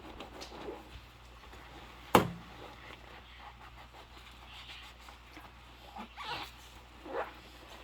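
Dishwashing by hand in rubber gloves: one sharp knock of a dish about two seconds in, then scattered short rubbing and squeaking sounds near the end.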